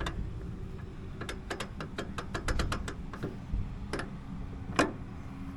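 Work on a hydraulic pump's inlet fitting: a quick run of sharp clicks, about seven a second, then two single louder clicks near the end, over a steady low rumble.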